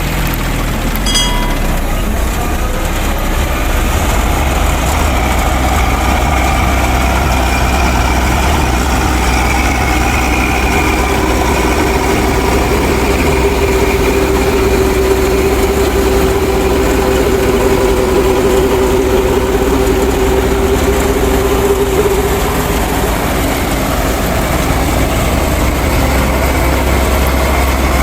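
Small engine-like motor running steadily with a deep, even hum. A steady whine joins in about 11 seconds in and fades out about 22 seconds in.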